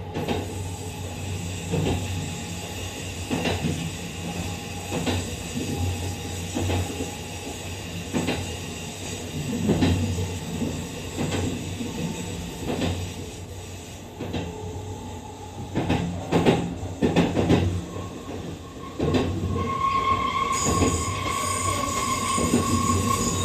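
Kintetsu 23000 series Ise-Shima Liner electric express train running, heard from inside its front cab: a steady rumble of wheels on rail with a click at the rail joints about every second and a half. About 19 seconds in, a steady high wheel squeal sets in as the train enters a curve.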